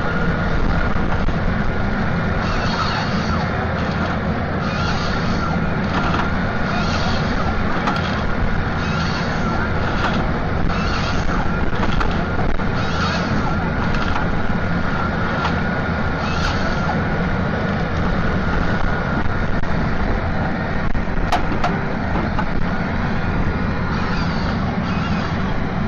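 Heavy machine running steadily with a constant whine, and a higher hiss that repeats every second or two through much of the stretch.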